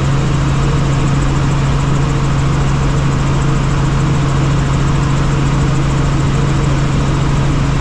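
Helicopter in flight: the engine and rotor make a steady, loud noise with a constant low hum under it.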